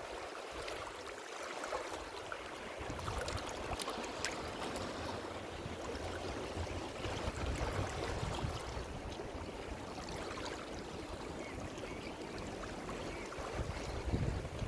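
Ocean surf: a steady wash of waves with a fizzing crackle of foam, the deeper rumble thinning for the first couple of seconds and building back in about three seconds in.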